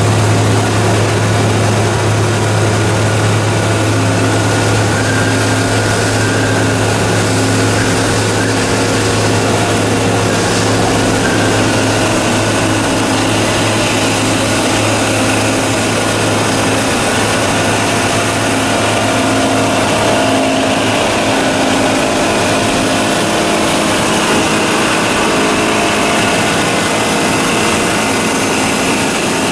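Two-stage plastic recycling machine running: a loud, steady mechanical noise with a strong constant low hum and a few steady tones above it.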